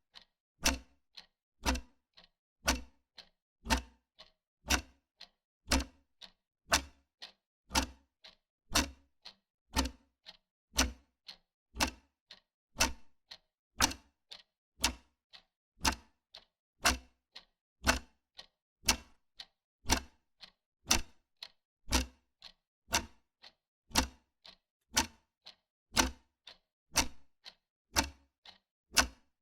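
Wall clock ticking steadily, a louder tick and a softer tock alternating, about one loud tick a second.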